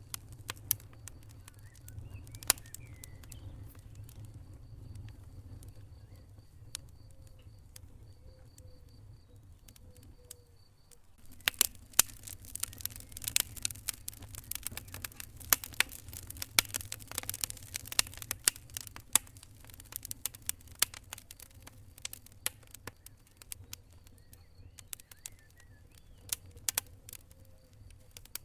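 Wood fire crackling in a fireplace: irregular sharp pops and snaps over a low steady rumble, sparse at first and much denser from about a third of the way in.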